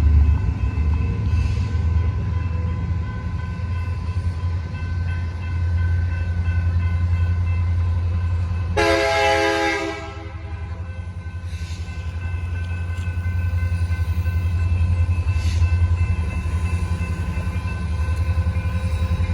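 Train rumbling past a grade crossing, a steady low rumble throughout, with one train horn blast about a second long about halfway through.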